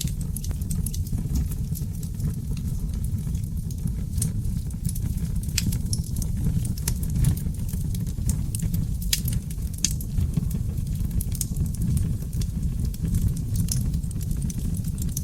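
Seasoned oak logs burning in a fireplace. The flames give a steady low roar, with sharp crackles and pops scattered irregularly throughout and a few louder snaps.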